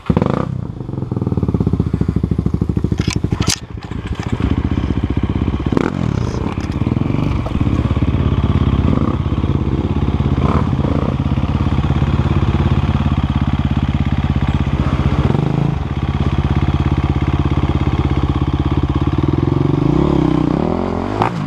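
Off-road motorcycle engine running close by, revving up and down, with a sharp knock about three and a half seconds in.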